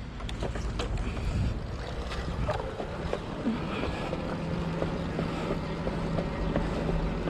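Rumbling wind noise on the microphone with scattered small clicks; a faint steady low hum joins about four seconds in.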